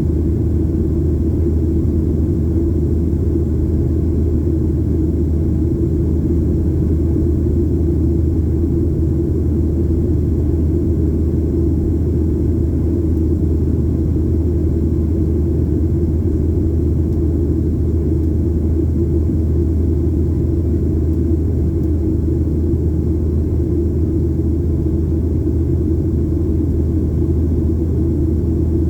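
Steady low rumble inside the cabin of a Boeing 737-800 under power, from its CFM56 engines and the airflow, holding level with no change.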